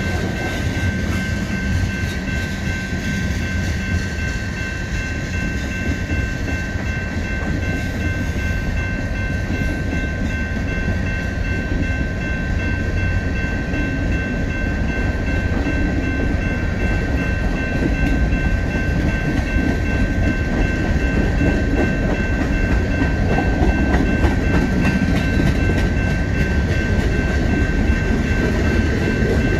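Freight train cars rolling past on the tracks: a steady low rumble with wheel clatter, and a steady high-pitched whine over it.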